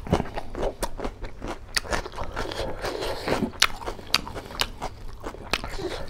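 A person chewing a mouthful of food close to the microphone, with a quick run of wet smacking and crunching clicks several times a second.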